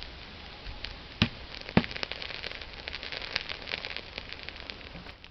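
Burning log fire crackling and popping, with two heavy knocks a little over a second in as a burning log is shoved against the others. The crackling grows busier after the knocks.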